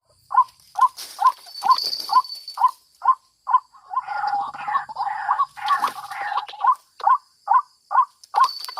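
White-breasted waterhen calling: a steady series of short, hooting notes about two a second, with a stretch of denser, harsher overlapping calls in the middle.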